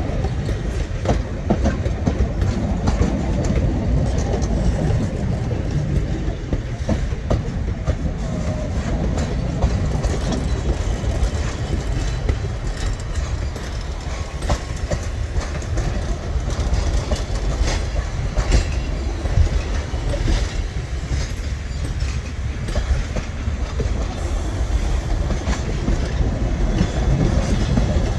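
Excursion train of open-air cars and passenger coaches rolling past. The steel wheels click over the rail joints above a steady low rumble.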